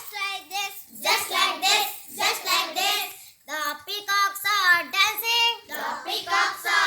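Children singing a nursery action rhyme together in short chanted phrases.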